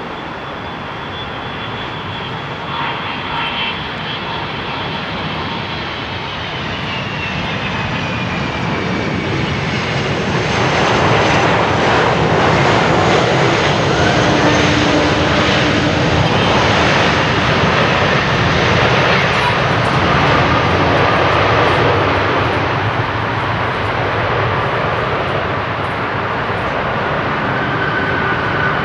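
Jet engines of an Airbus A300-600 freighter as it passes on arrival. A high whine glides down in pitch early on, then a loud, dense roar builds and holds before easing slightly near the end.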